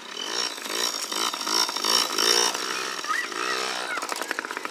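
Dirt bike engine revving up and down in short blips, about two a second. Near the end it settles into a steadier, evenly pulsing run.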